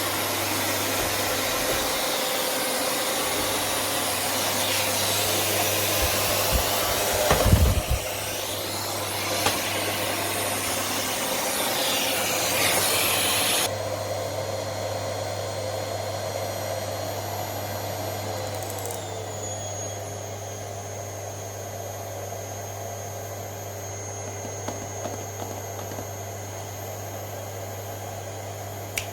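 Rowenta RO6835 EA vacuum cleaner running with a loud rush of air and a low hum, with one heavy thump about a quarter of the way in. About halfway through, the rushing cuts off abruptly to a much quieter, thinner hiss. A little later a whine slides down in pitch, and a few light clicks follow.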